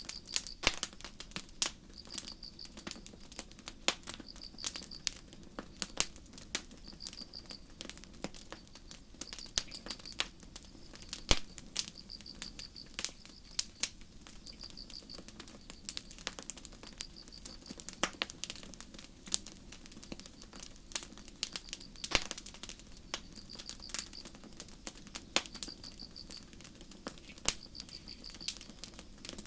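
Campfire crackling, with frequent sharp pops and snaps over a steady low rumble of the burning wood. A cricket chirps a short trill every two seconds or so.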